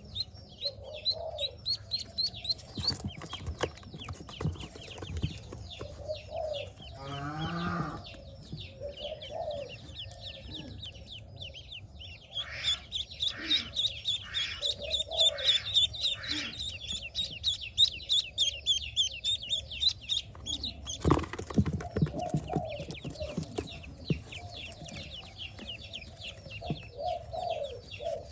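Pekin ducklings peeping in quick, high-pitched runs, with lower clucking calls from fowl now and then. About three-quarters of the way through there is a brief rustling thump.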